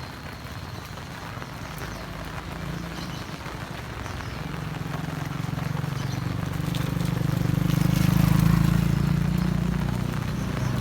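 Steady heavy rain. A motor vehicle's engine comes in about four seconds in, grows louder and is loudest near the end as it passes close.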